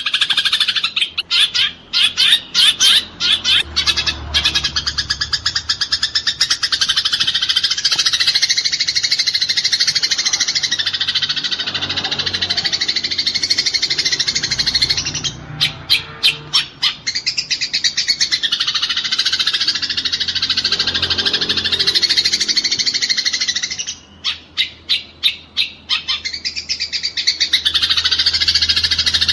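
Eurasian tree sparrows giving their fighting chatter: a dense, continuous run of high chirps, broken three times by stuttering trains of separate rapid-fire chirps, about four or five a second.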